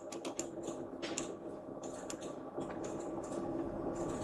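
Scattered clicks of a computer keyboard and mouse, a dozen or so light taps over a faint steady hum.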